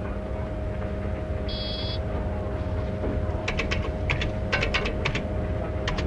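Steady electrical hum with a faint steady tone. About a second and a half in comes a short, high electronic beep, then a quick run of light clicks for a little under two seconds.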